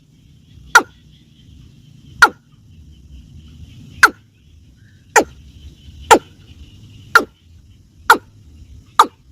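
An animal giving eight short, sharp calls, one every second or so, each falling quickly in pitch, over a faint steady background hum.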